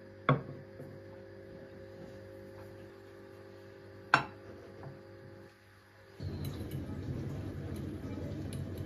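Two sharp clinks of kitchen dishware, one just after the start and another about four seconds in, each with a short ring, over a faint steady hum. About six seconds in, a louder steady rustling noise begins.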